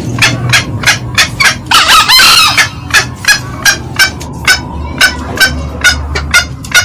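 Green junglefowl calling: a fast run of short, sharp cackling notes, about three to four a second, with one longer crow about two seconds in.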